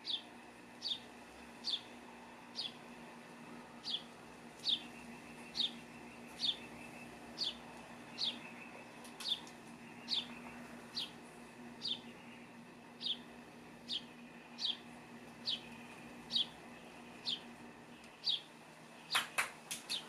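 A small bird calling off-camera: a single short, high chirp that drops in pitch, repeated about once a second over and over. Near the end comes a quick run of sharp clicks.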